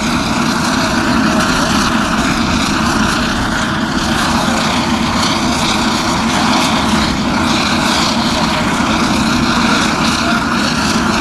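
Propeller airplane's engines running, a loud steady drone with a steady hum under it.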